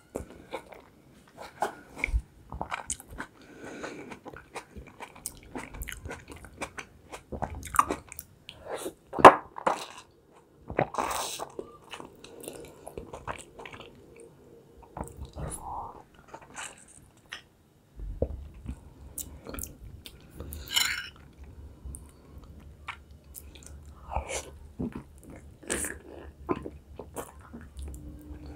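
Close-miked eating sounds: biting and chewing boiled beef khinkali dumplings with red sauce, with many irregular wet mouth clicks and smacks.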